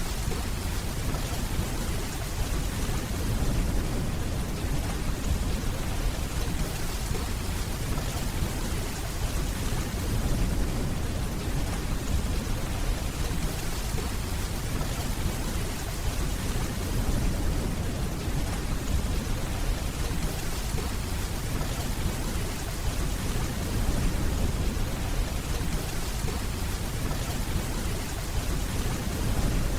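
Steady rainfall with a low, continuous rumble of distant thunder beneath it.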